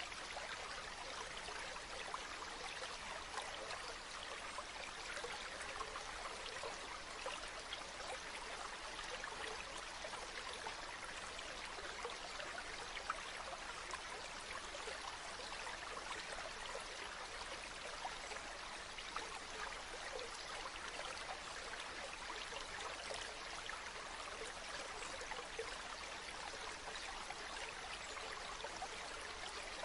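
A river or stream flowing steadily over rocks: a constant rushing babble of water.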